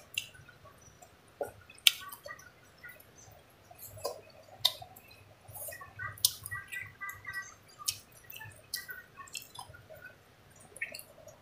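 Close mouth sounds of someone eating by hand: wet lip smacks and irregular short clicks while chewing rice and fish.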